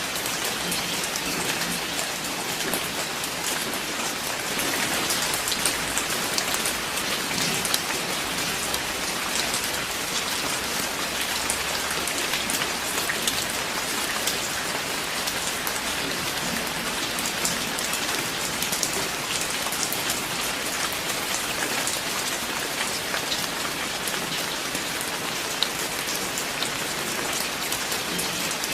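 Steady rain falling, a continuous even hiss with many individual drops heard as fine ticks.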